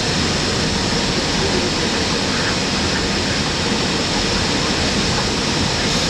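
Steady, even rushing noise inside the flight deck of an Airbus A320 in flight on approach, the airflow and engine noise of the cockpit.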